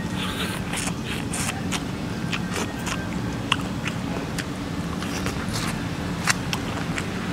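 Close-up mouth sounds of biting kernels off a piece of boiled corn on the cob and chewing them: many short, sharp crunchy clicks and wet smacks, several a second.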